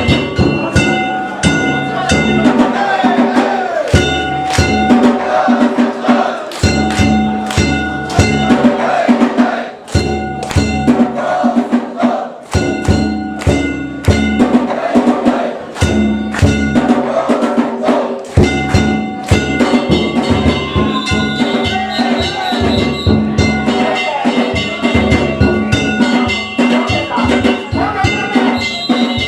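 Danjiri festival music: a taiko drum and metal hand gongs beaten in a fast, continuous rhythm, the gongs ringing on between strokes.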